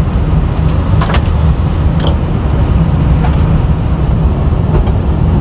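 Steady low rumble of an Airbus A320 cockpit while the airliner taxis with its engines running, with a few sharp clicks about one and two seconds in.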